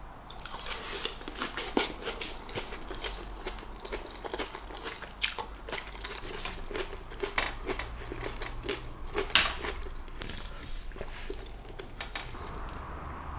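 A person chewing and eating close to the microphone: irregular mouth clicks and smacks, the sharpest about nine seconds in.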